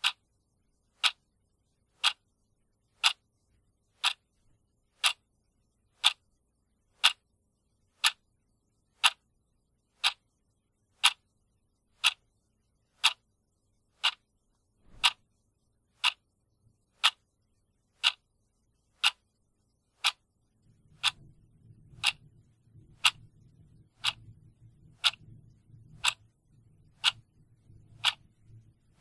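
Clock ticking steadily, one sharp tick a second. A faint low rumble comes in underneath about two-thirds of the way through.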